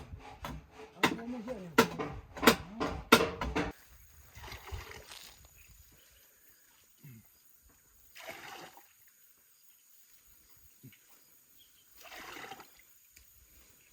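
Hammer blows on a timber frame: five or six sharp knocks in the first few seconds, with voices under them. After that come three short, faint splashing noises a few seconds apart.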